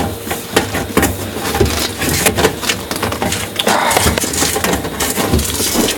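Irregular knocking, scraping and rattling of a garden hose, a tennis ball tied to its end, being pushed up inside a cooktop exhaust duct.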